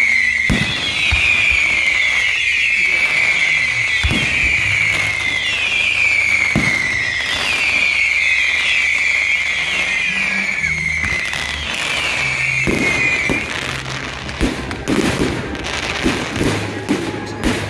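Fireworks display: a run of shrill, overlapping whistles, each falling in pitch, with a few thuds of shells going off. About 13 seconds in the whistling stops and a rapid volley of sharp cracks and bangs takes over.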